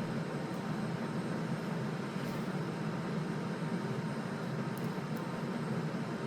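Steady low machine hum with an even hiss over it, unchanging throughout, and a few faint light ticks.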